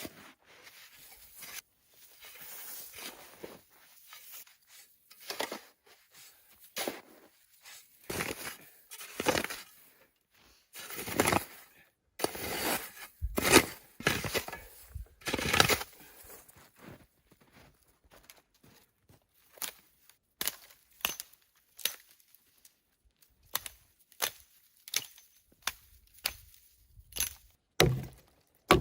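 A person moving about and handling gear in snow: irregular crunching, rustling and scraping, then a run of short sharp cracks and knocks in the second half.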